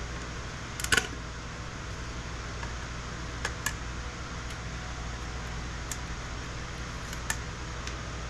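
Sharp clicks and snaps of electronic components being pried and broken off circuit boards: one loud double snap about a second in, then a few fainter clicks scattered later. A steady low hum runs underneath.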